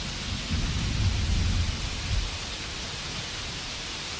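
Steady rain hiss, with a low rumble of thunder swelling about half a second in and fading by just past two seconds.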